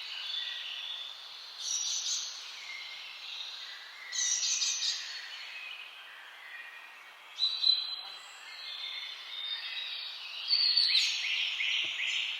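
Birds singing over a steady high-pitched background chorus, with a louder song phrase breaking out about every three seconds, four in all.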